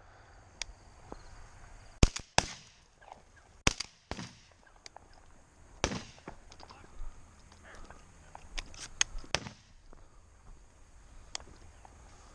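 Shotgun shots from several hunters firing at passing doves: sharp, loud reports spaced a second or more apart through the first six seconds, then a quicker cluster of fainter, more distant shots around nine seconds.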